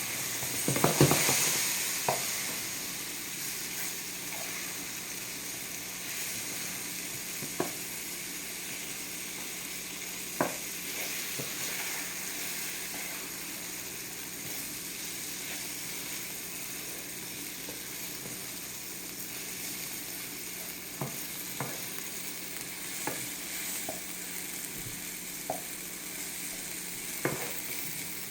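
Chicken pieces sizzling steadily as they brown in a hot pan, louder about a second in as they are stirred, with scattered light clicks against the pan afterwards.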